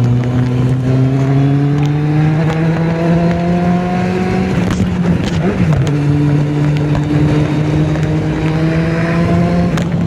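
Kawasaki Z750's inline-four engine running under load on the move, its pitch climbing slowly, with a brief wobble about halfway through before it holds steady and rises again.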